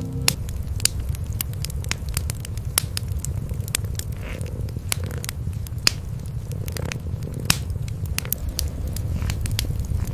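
Wood fire crackling, with many sharp pops scattered irregularly, over a steady low rumble of cats purring.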